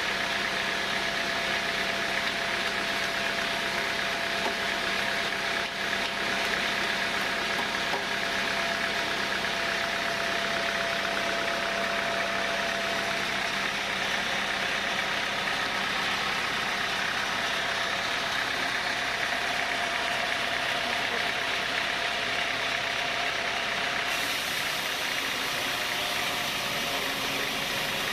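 Sawmill saw machinery running steadily, a dense mechanical noise with a constant high whine. The sound shifts slightly about four seconds before the end.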